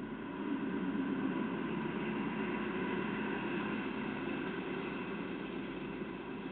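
Steady rumble of a freight train's wagons rolling past on the track, swelling about half a second in and easing a little near the end.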